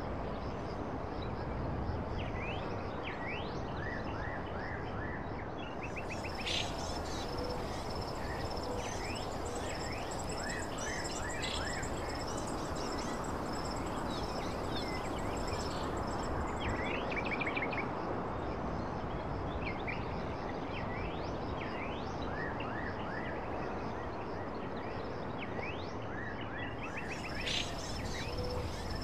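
Nature ambience: birds chirping in many short quick calls over a steady background hiss, with an insect's high steady trill that comes in about six seconds in, drops out around sixteen seconds, and returns near the end.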